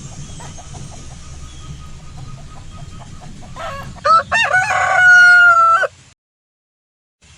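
A rooster crows once, its cock-a-doodle-doo ending in a long held note. Softer clucking comes before it. The crow cuts off suddenly into silence.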